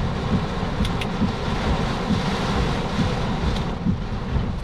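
Storm wind and heavy rain buffeting a vehicle, a steady loud rush with an uneven low rumble and a few faint ticks.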